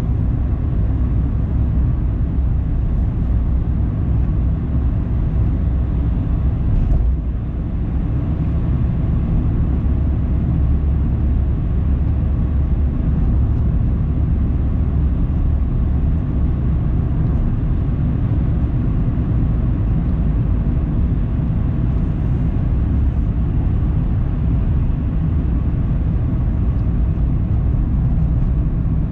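Car driving along a road: a steady low rumble of tyres and engine, with a brief click about seven seconds in.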